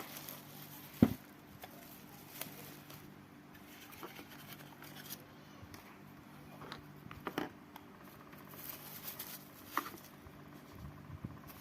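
Scattered clicks and taps of objects being handled, with one sharper knock about a second in, over a faint low hum.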